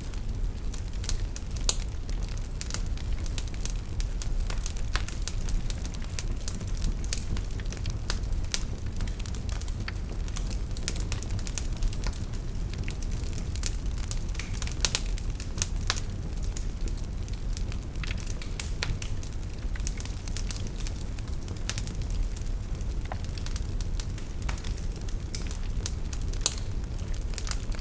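Wood fire burning in a fireplace: a steady low rumble with frequent sharp, irregular crackles and pops of burning logs.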